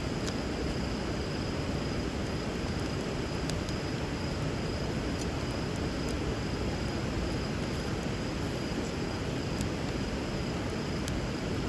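River water rushing steadily, with a few faint sharp crackles from a wood fire burning over the water.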